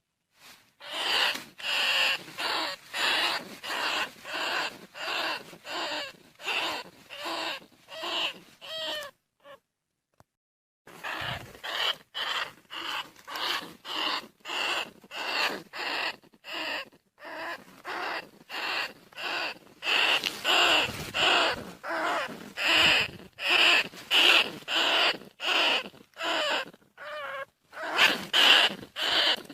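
Bandicoot rat calling: a long series of short, harsh squeaks at about one and a half a second, with one pause of about two seconds partway through.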